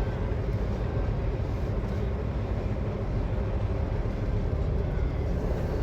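Semi truck's diesel engine running steadily at low speed.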